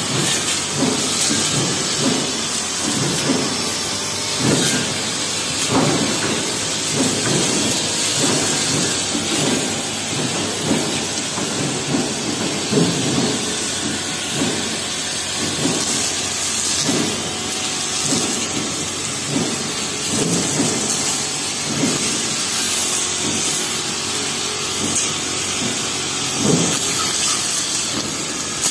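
Honda four-stroke brush cutter fitted with a metal cutting blade, running steadily while cutting through tall grass, with frequent uneven knocks and swishes from the blade.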